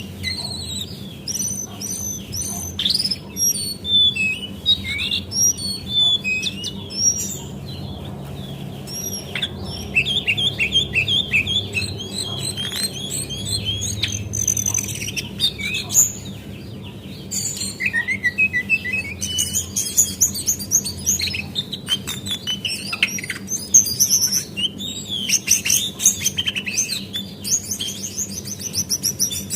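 Female lesser shortwing (brown cingcoang, jongkangan coklat) singing: rapid high chirps and twittering phrases, one after another, over a steady low hum.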